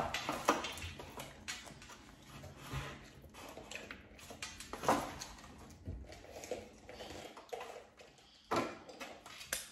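Scattered rustling and light knocks of takeout food and containers being handled, with a louder rustle about eight and a half seconds in.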